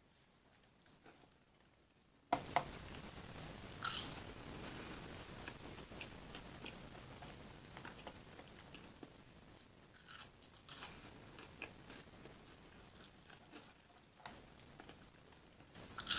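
A person eating close to the microphone: faint for about two seconds, then a sudden bite followed by chewing with scattered crunches and wet mouth clicks.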